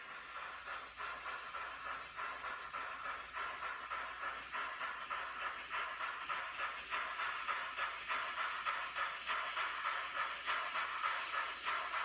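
Steam locomotive chuffing: a steady rhythm of hissing exhaust beats, about two to three a second, growing slightly louder.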